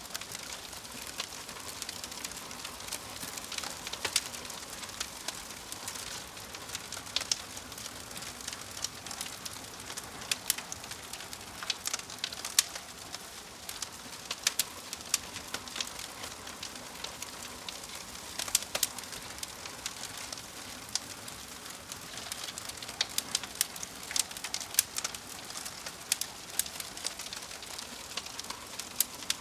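Wood fire burning in a fireplace: a steady hiss with irregular sharp crackles and pops from the logs.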